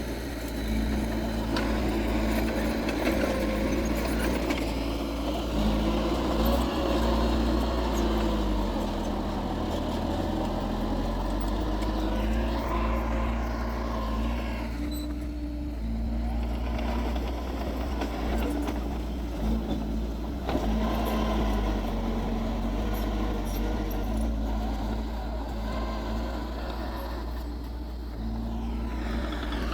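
Heavy diesel earthmoving machinery running continuously, its engine note stepping up and down in speed several times as it works.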